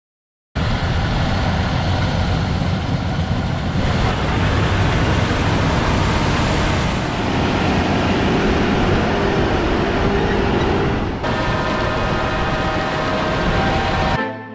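Heavy diesel harvest machinery running, a loud, steady mix of engine and machine noise. The sound shifts abruptly about 4, 7 and 11 seconds in, with a clearer pitched engine drone in the last few seconds.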